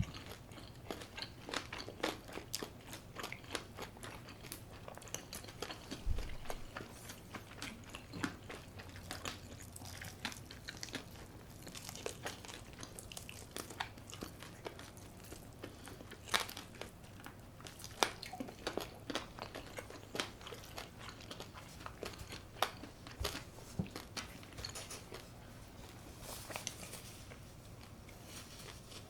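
A person eating crispy brown-rice-coated baked chicken close to the microphone, many sharp irregular crunches from bites with quieter chewing between them.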